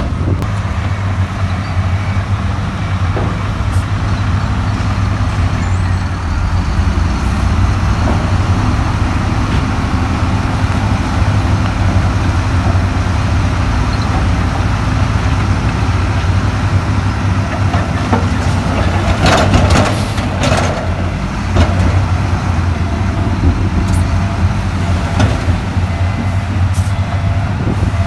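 Heavy diesel engine of earthmoving machinery running steadily with a deep hum. A brief burst of noise comes about two-thirds of the way through.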